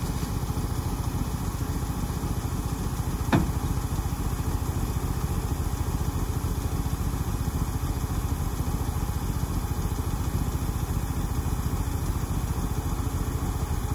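A Ford Maverick's engine, back running after 26 years sitting seized, holding a steady idle. About three seconds in there is one short, sharp sound that drops quickly in pitch.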